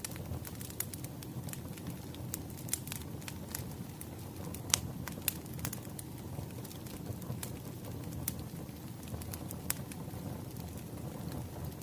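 Wood fire crackling: a steady low rumble of burning with irregular sharp pops and snaps, the loudest pop about five seconds in.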